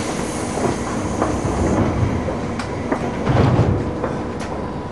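Inside a JR Chuo Rapid Line commuter train standing at a station platform: a steady hum with scattered clicks and knocks. A high hiss runs over the first two seconds, and a louder low rumble comes about three and a half seconds in.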